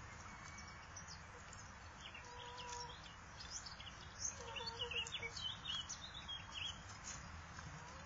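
Duckling peeping: a run of many short, high peeps through the middle of the stretch, with two lower, longer calls among them.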